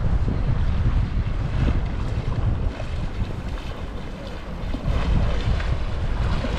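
Wind buffeting the microphone in a heavy, uneven rumble, over the wash of shallow sea water and small waves at the shore.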